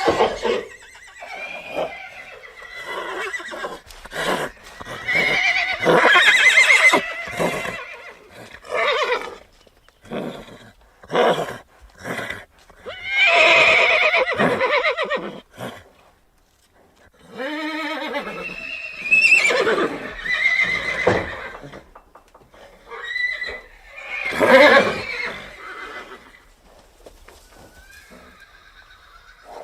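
Horse neighing and whinnying: several long calls a few seconds apart, with short sharp sounds between them.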